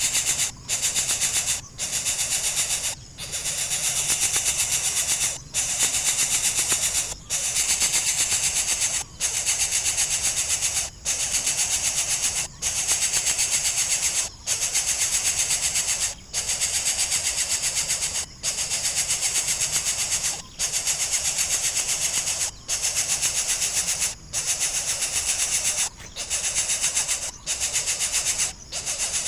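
Coucal nestling giving rasping, hiss-like begging calls, each lasting one to two seconds with short pauses between, as it begs for more food.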